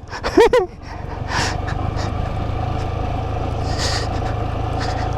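Motorcycle engine running steadily while riding, picking up about a second in. A short voice-like sound comes just before it.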